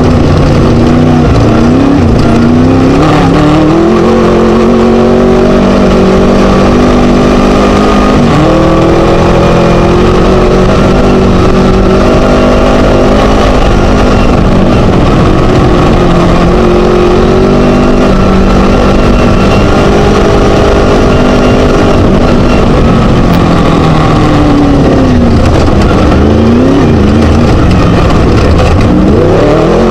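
Loud class 1 desert race buggy's Scat engine running hard under throttle, its pitch rising and falling with speed and gear changes, and dropping then revving back up near the end. Steady rattle and off-road noise runs under it.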